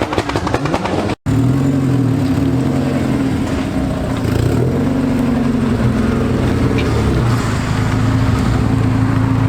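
A car engine revving up and down repeatedly. The sound cuts out for an instant about a second in.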